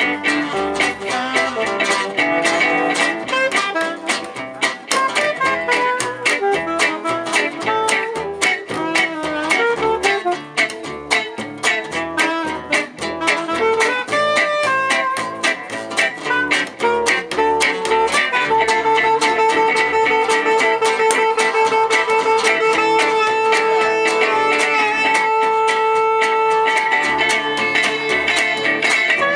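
A jazz manouche band playing live: an instrumental passage of quick plucked guitar notes over a steady rhythm. About two-thirds of the way in, a long held note with vibrato comes in over the rhythm.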